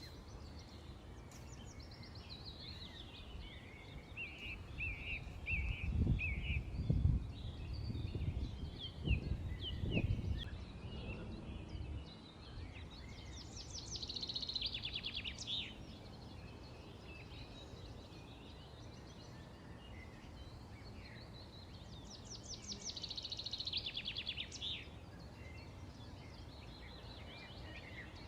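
Several small birds chirping and calling, with two fast rattling trills, one near the middle and one later. A low rumble swells up for a few seconds in the first half.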